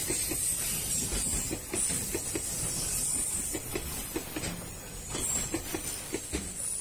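Freight train's container wagons rolling past, wheels clicking irregularly over rail joints above a low rumble, with a steady high hiss.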